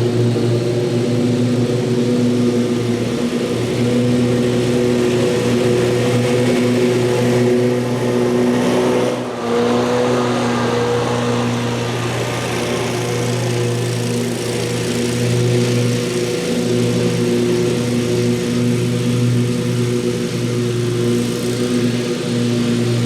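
Commercial lawn mower engine running steadily at speed, with a brief dip about nine seconds in.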